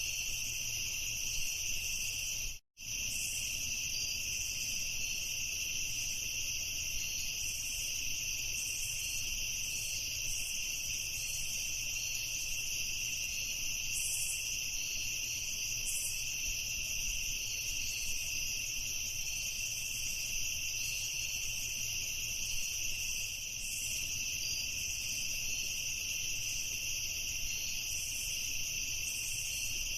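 A chorus of crickets chirping steadily. The sound cuts out completely for a split second about two and a half seconds in, then carries on unchanged.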